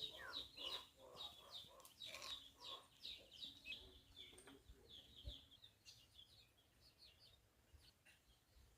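Faint chicken calls: many short, high chirps in quick succession with a few lower clucks, thinning out and fading over the last few seconds.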